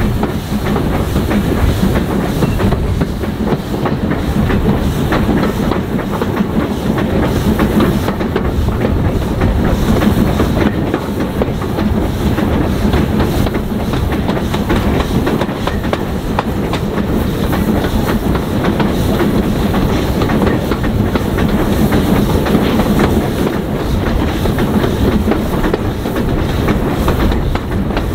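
Railway train running steadily along the track: a continuous rumble with the clickety-clack of wheels over rail joints.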